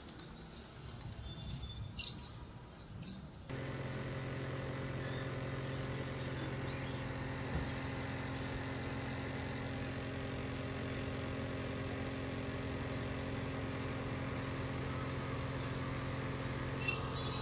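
A few short bird chirps, then a steady machine hum starts abruptly about three and a half seconds in and holds an even pitch.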